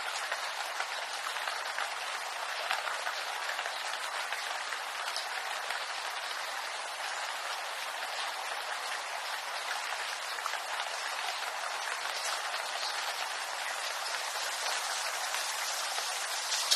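Steady rain pattering on bamboo leaves, a dense even hiss of many small drops.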